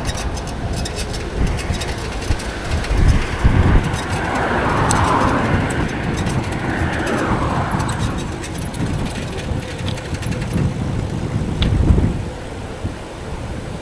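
Wind buffeting the microphone and rolling tyre noise from a bicycle riding along, with a broader swell of noise about four to eight seconds in.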